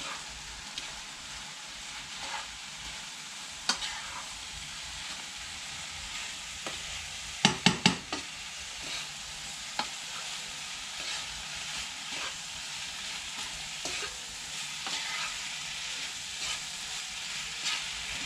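Saime beans with shrimp and potato sizzling in a pot while a spoon stirs and scrapes through them, with scattered small clicks. Three quick, sharp knocks come a little before halfway through.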